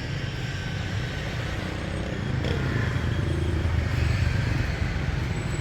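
Low rumble of road traffic that swells about three seconds in, as a vehicle passes.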